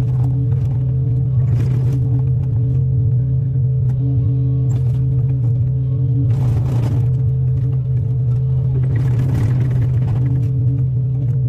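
Excavator's diesel engine running steadily under load, with a few short bursts of noise about a second and a half, six and a half, and nine to ten seconds in.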